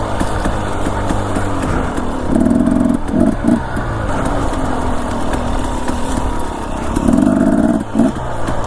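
Dirt bike engine running as it is ridden slowly along a trail, with two louder bursts of throttle, about two seconds in and again about seven seconds in.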